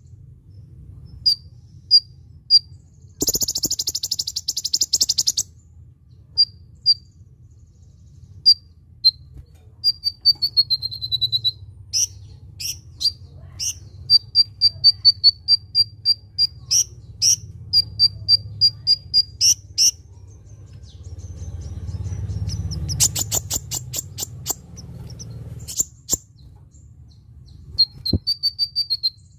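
Kolibri ninja sunbird singing: high, thin chirps and quick runs of sharp notes, with a short falling trill. A few dense buzzing rattles break in, over a faint low hum.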